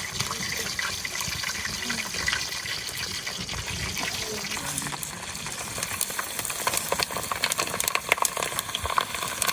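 Water rushing steadily with many small splashes and patters, busier in the second half.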